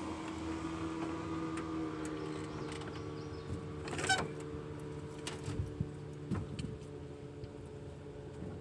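Steady low hum of a running motor, with a short rattle about four seconds in and a few faint clicks.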